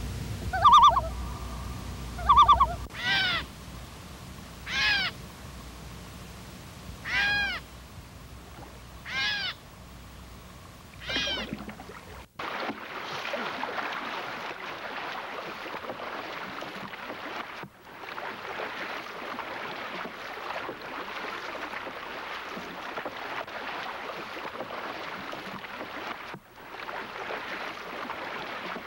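A bird calls repeatedly for about the first twelve seconds: two short level notes, then five arched calls that rise and fall in pitch, about two seconds apart. After a sudden cut, a steady rushing noise of river water and wind follows as a large canoe is paddled, broken twice by brief gaps.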